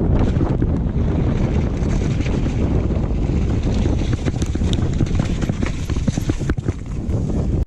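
Wind rushing over the microphone of a downhill mountain bike at speed, with constant clattering and knocking of the bike's chain and frame over rough trail and a burst of sharper knocks near the end.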